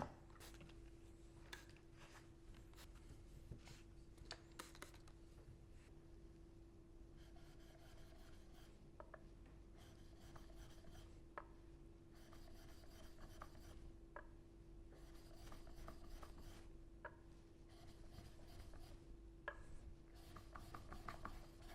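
Chisel bevel rubbed back and forth on a 6000-grit sharpening stone: faint, repeated scraping strokes in short runs, with a few light clicks.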